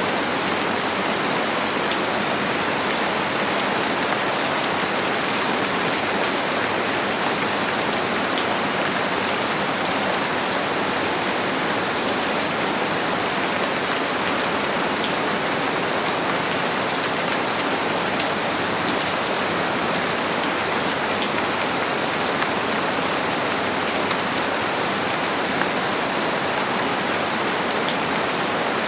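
Steady rain falling, a dense even hiss with many small drop patters on a surface. No thunder.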